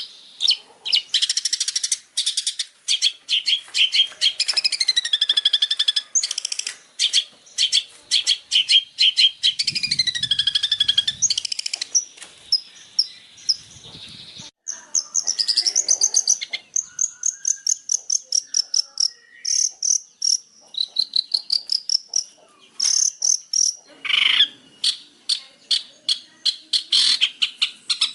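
Songbird song for training a long-tailed shrike (cendet): fast runs of repeated high chip notes alternating with rising and falling whistled phrases, with a brief break about halfway through.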